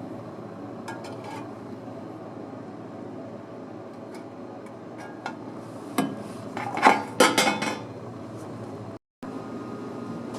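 Metal clinking on a workbench: a few light clicks, then a cluster of louder metallic clanks and clatter from about six to seven and a half seconds in, over a steady low hum.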